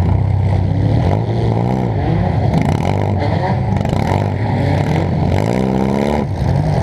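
Demolition derby car's engine heard from onboard, revving up and dropping back several times in quick succession.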